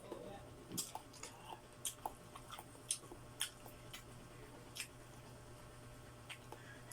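Close-up mouth sounds of someone eating adobo chicken feet: chewing and biting, with irregular sharp wet clicks and smacks a few times a second.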